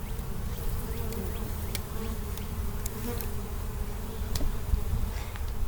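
Honeybees buzzing steadily around an opened hive being cut out and moved into a box, with a slightly wavering hum over a low rumble and a few light clicks.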